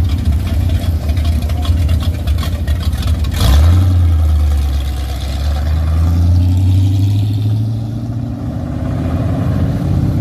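Hot rod's engine idling with a rapidly pulsing exhaust rumble. About three and a half seconds in it gets suddenly louder as the car accelerates, holds a steady low note, then eases off near the end.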